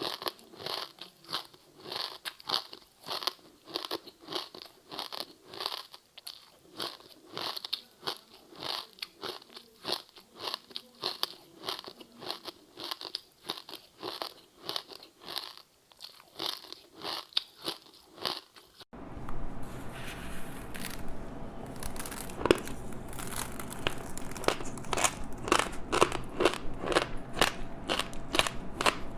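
Close-miked crunchy chewing of a crispy seaweed-wrapped rice snack, at a steady rhythm of about two crunches a second. About nineteen seconds in, the sound changes abruptly to louder, denser crackling crunches over a steady low hum.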